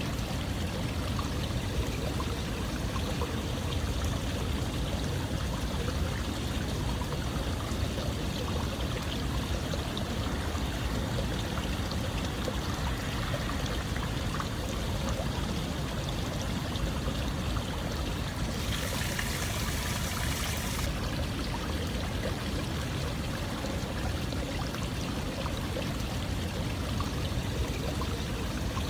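Steady running water, continuous and even, with a brief brighter hiss lasting about two seconds about two-thirds of the way through.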